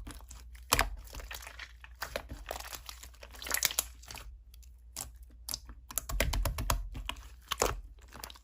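Slime being squeezed and worked by hand: irregular sticky clicks and crackling pops, denser in a couple of stretches.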